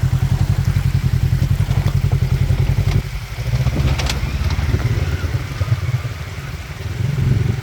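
Polaris RS1 1000's twin-cylinder engine running with an even low pulse, which drops off about three seconds in and then runs unevenly, with a sharp click about a second later.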